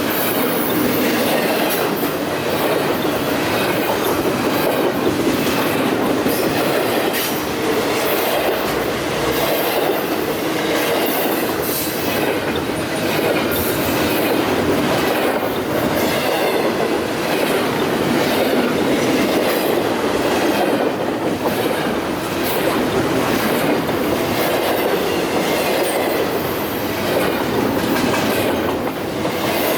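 Freight train cars rolling steadily past, the wheels clicking over the rail joints in a continuous loud rumble.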